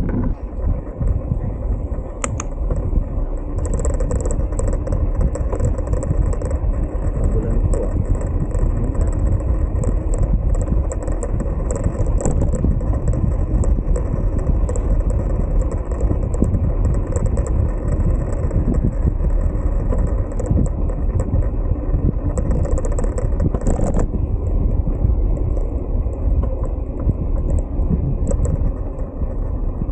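Steady low rumble of wind and road noise from a bicycle in motion, with a flickering high hiss that mostly drops away about 24 seconds in.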